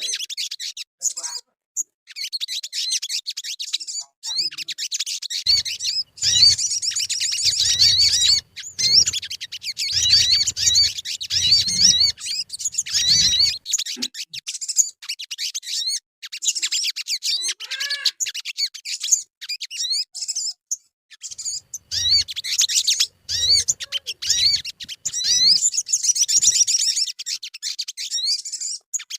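Sogon songbird twittering: a fast, unbroken stream of high, wavering chirps in long runs with brief pauses. This is the excited twittering that keepers play as a lure call to set caged sogon singing.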